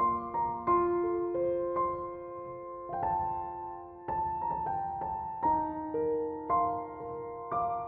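Background piano music: slow, soft notes and chords struck about once a second and left to ring.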